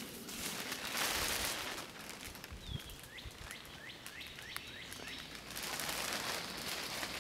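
A small bird calls a quick series of about eight short chirps over steady outdoor background noise, after a brief rustle about a second in.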